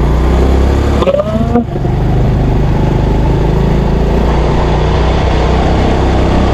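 Motorcycle engine running at riding speed, with wind rushing over the microphone; a short voice-like sound about a second in.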